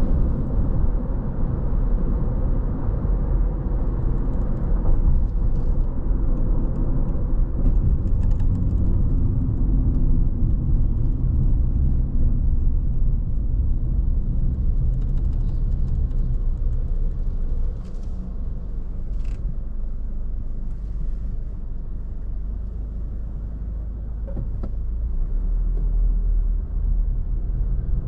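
A car driving along, giving a steady low rumble of road and engine noise that eases slightly about two-thirds of the way through.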